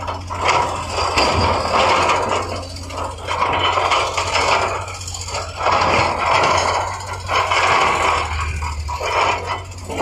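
Heavy earthmoving machinery at work: scraping and grinding noise that swells and fades every second or two, over a steady low engine hum.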